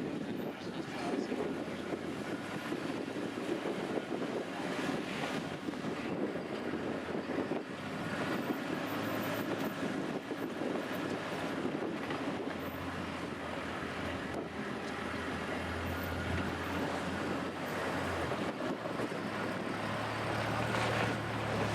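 Safari game-drive vehicle driving, its engine running with a low steady drone under wind rushing over the microphone. The engine note grows stronger in the second half and is loudest near the end.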